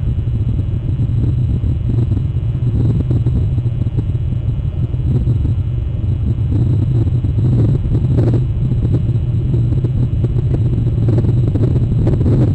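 Steady low rumble with a gusty, fluttering texture: wind buffeting the microphone of an outdoor camera.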